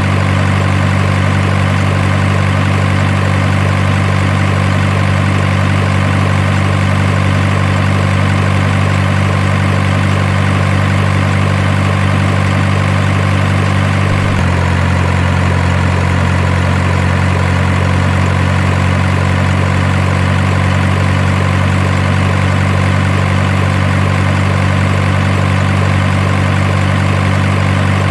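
Steady low engine idle like a heavy truck's, holding an even, unchanging drone; its tone shifts slightly about halfway through.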